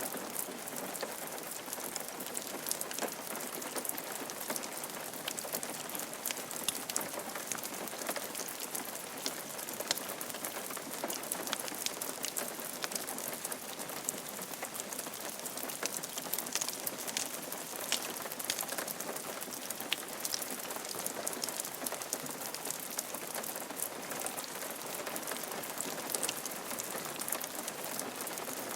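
Steady rain falling on a roof, a dense even patter with many individual drops ticking.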